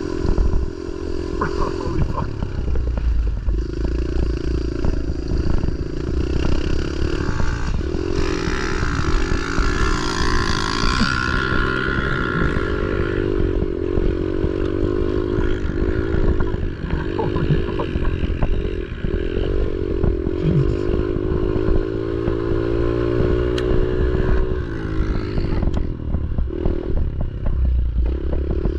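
Pit bike engine running under load as the rider laps a dirt track, its pitch rising and falling repeatedly with throttle and gear changes and winding up highest about a third of the way in. Rattling and knocking from the bike over rough ground.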